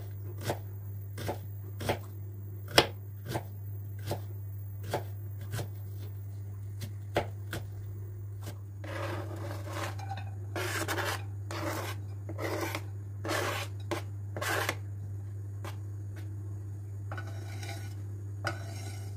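Household handling sounds: a run of regular light taps, about one every 0.7 seconds, then around seven short rubbing strokes, over a steady low hum.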